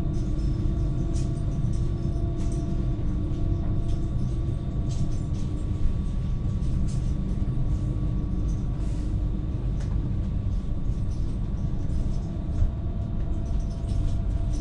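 Interior of a Westbahn Stadler KISS double-deck electric train running at speed: a steady rolling rumble heard inside the passenger cabin, with faint held tones and a few light clicks from the track.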